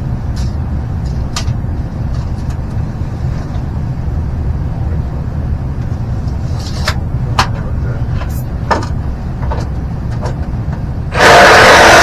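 A steady low rumble with scattered light knocks and clicks, then near the end a power saw starts cutting 3-inch drain pipe with a fresh blade. The sudden, loud, even cut is much louder than anything before it.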